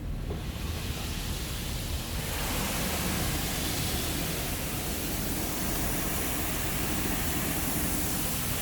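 Car-wash spray jets drenching the van, heard from inside the vehicle as a steady hiss of water that builds up over the first couple of seconds and then holds.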